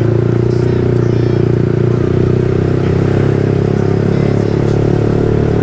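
Yamaha R15 V3's single-cylinder 155 cc engine running at a steady engine speed, heard from the rider's own motorcycle.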